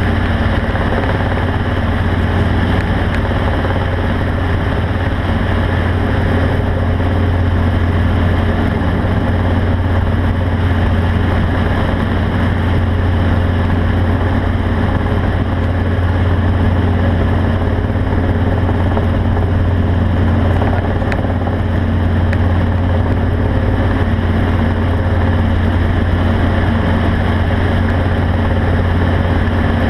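A vehicle engine running at a steady speed: a constant low drone with steady tones above it, unchanging throughout.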